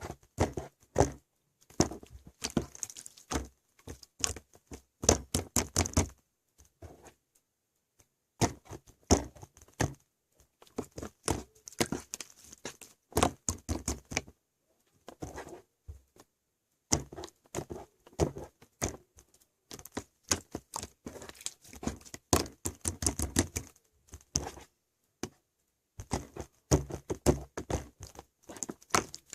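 Toy slime being squished, pressed and stretched by hand, giving runs of quick wet clicks and pops in bursts with short pauses between them.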